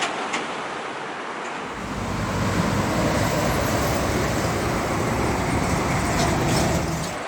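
Heavy truck passing close on a highway, with a loud low engine and tyre rumble that starts about two seconds in over steady traffic noise and cuts off abruptly near the end.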